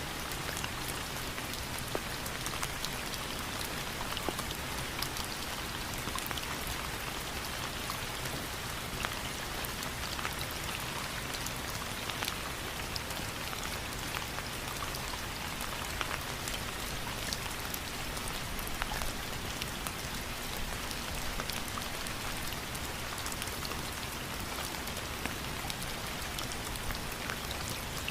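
Steady rain falling on a surface: an even hiss with the patter of many individual drops scattered through it.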